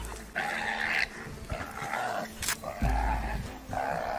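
A young prey animal held in a leopard's jaws cries out in distress again and again, about five short cries roughly a second apart. There is a low rumble under two of them.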